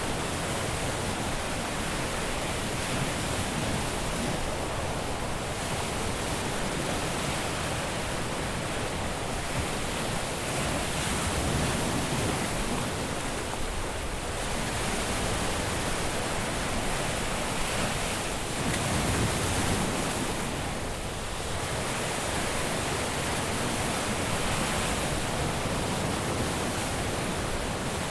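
Caribbean surf breaking on a beach: a continuous wash of waves with slow swells as sets come in, stronger about ten seconds in and again near twenty seconds.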